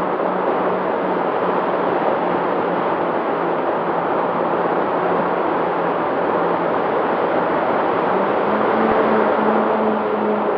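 Seaplane's motor running steadily over a rushing noise, its hum stepping up slightly in pitch about eight seconds in.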